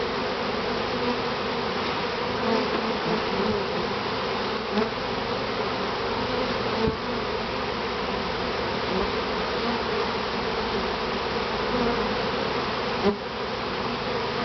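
Dense, steady buzzing of a mass of disturbed honeybees flying around an opened top bar hive, agitated by the harvest. A few light knocks come through the buzz, the sharpest near the end.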